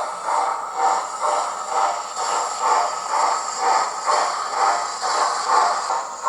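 Sound decoder of a Hornby Flying Scotsman model playing slow steam-locomotive chuffs through its small speaker, an even beat of about one and a half chuffs a second over a steady hiss.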